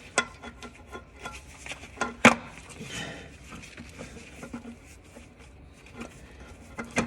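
Starter motor being worked up into position against the engine's bell housing: scattered metal knocks and scrapes, the loudest knock about two seconds in and another near the end.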